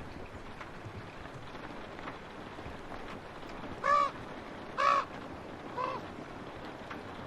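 A crow cawing three times in quick succession, the last caw fainter, over the steady patter of rain on a window.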